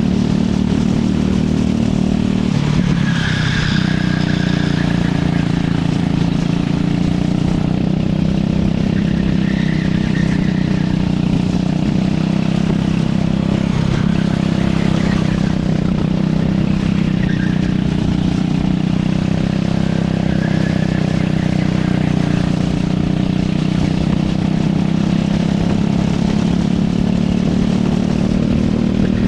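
Racing kart engine running hard through the laps, a steady high drone that dips briefly about three seconds in and again midway as the revs drop.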